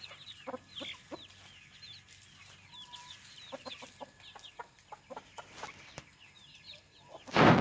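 Chickens clucking softly, with many short high-pitched chirps running through. Near the end, a sudden loud gust of wind hits the microphone.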